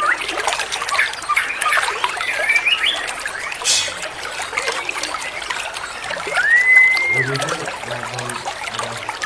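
White-rumped shama singing over trickling water: quick chirps and whistled notes, then a long clear whistle that rises, holds and falls about six and a half seconds in. A low, evenly repeated pulsing joins in near the end.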